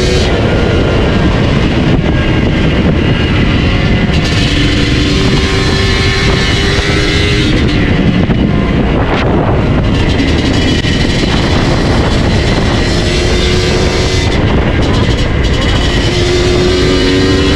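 Yamaha DT125's single-cylinder two-stroke engine running through an MCF expansion-chamber tune pipe, its pitch climbing and dropping back several times as it is revved hard, with a rough, raspy exhaust note.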